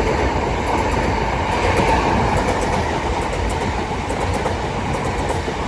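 Southeastern Class 375 Electrostar electric multiple units passing through the station non-stop: a steady, loud rush and rumble of wheels on rail with a faint steady whine.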